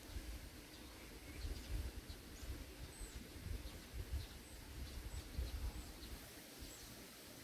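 Faint, scattered short chirps of small birds in the distance, over an uneven low rumble.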